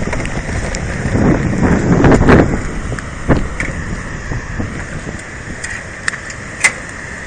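Steady rushing noise of the flood-swollen river below the weir, with gusts of wind buffeting the microphone about a second or two in and a few short clicks.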